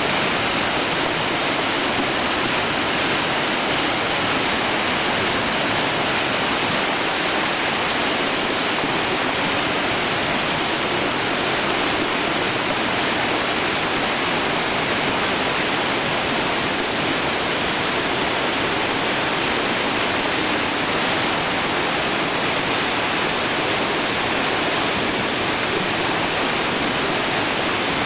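Whitewater of a Chattooga River rapid rushing steadily, an even roar of water with no breaks.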